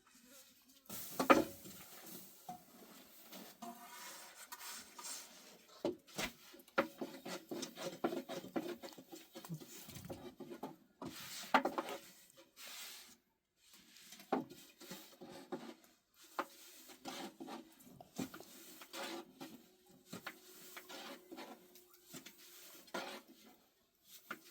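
Irregular knocks, taps and clatter of objects being handled, in uneven clusters with short pauses.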